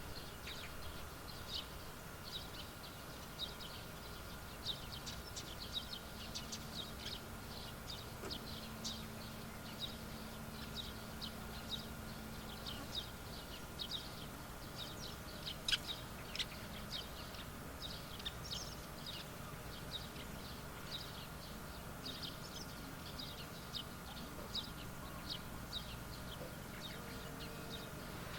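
Small birds chirping in many short, high calls throughout, with a faint steady high whine underneath.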